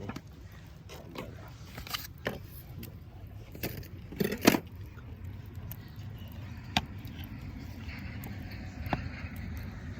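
Metal cookware and utensils being handled for campfire cooking: scattered clinks and knocks, the loudest a short cluster about four and a half seconds in, over a steady low rumble.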